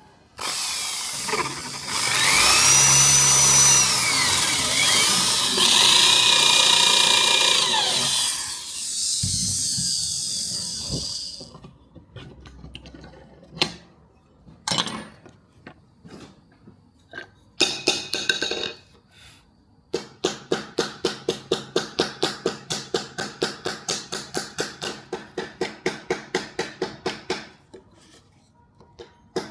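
A power tool runs for about ten seconds with a whine that rises and falls, then stops. After a few scattered knocks, a rapid, even rhythm of hand strokes follows, about three or four a second, for several seconds before stopping near the end.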